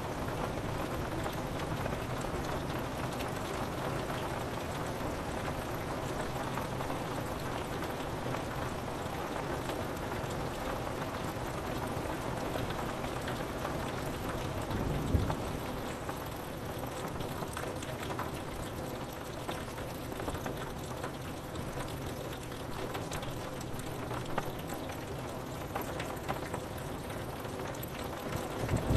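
Steady rain pattering on a window, with a brief low rumble of thunder about halfway through.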